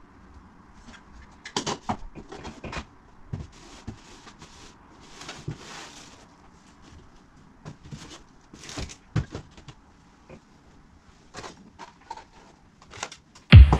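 Household items being handled and put away: scattered light knocks, clicks and rustles, with a cupboard-type knock here and there. Loud music with a heavy beat cuts in near the end.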